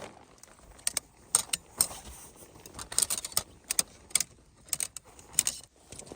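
A run of about a dozen sharp clicks and clinks at irregular intervals, like small hard objects being handled.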